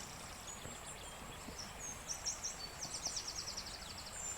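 Faint outdoor ambience: scattered high-pitched chirps over a steady high whine, with a fast trill of about a dozen notes around three seconds in.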